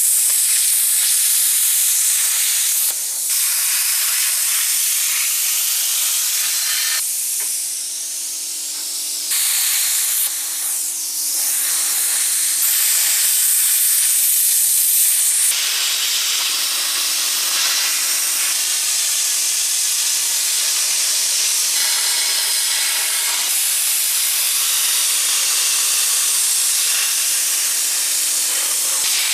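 Air plasma cutter hissing steadily as its arc cuts thin dishwasher sheet metal, the torch fed compressed air at about 90 psi. The hiss starts abruptly and eases for a couple of seconds about a quarter of the way in before picking up again.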